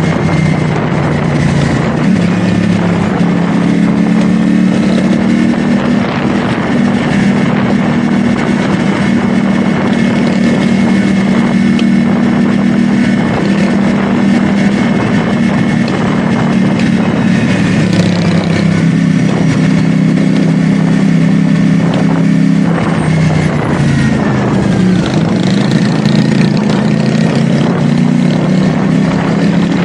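CFMoto 450SR S parallel-twin engine running at a steady cruise, with wind rushing over the microphone. A little over twenty seconds in, the revs drop and then climb again.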